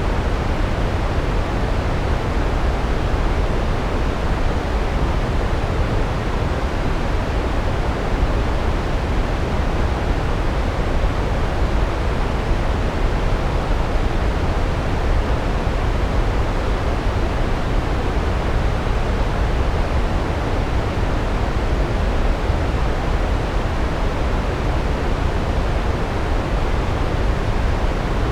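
Large waterfall: water falling in a steady, unbroken rush, heaviest in the low end, with no change throughout.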